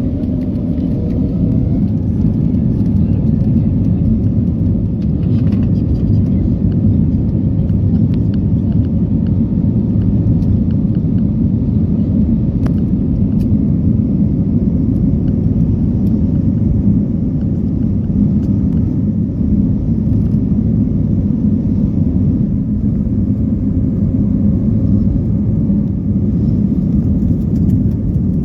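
Steady, loud low rumble in the cabin of an Airbus A320neo: the aircraft's engine and airflow noise heard from a passenger seat.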